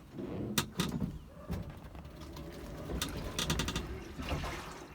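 Knocks, clicks and creaks from a GEM electric car's body and frame as it is inched forward and braked, including a quick rattle of ticks past the middle and a faint whine.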